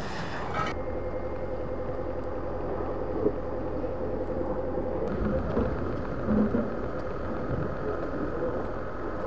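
A motor running steadily, a low hum with a steady whine over it, and a few faint knocks and clatters.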